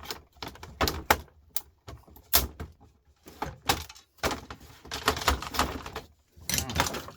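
Irregular clicks, knocks and scrapes of plastic and metal parts as an old record player's casing is worked apart with a screwdriver, with a longer scraping stretch in the second half.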